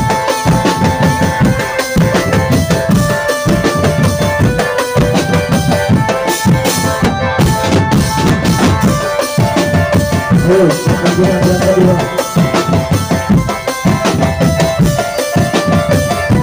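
Drum band playing: rapid, dense drumming with bass drum and snare under a held, note-by-note melody line.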